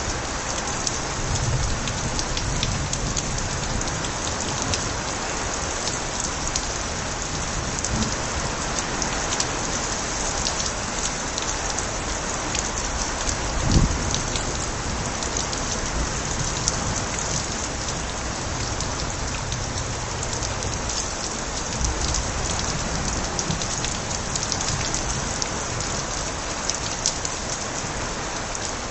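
Steady heavy rain with water overflowing gutters: a dense hiss of falling water with many sharp drip ticks and a few low rumbles. A single heavier thud comes about fourteen seconds in.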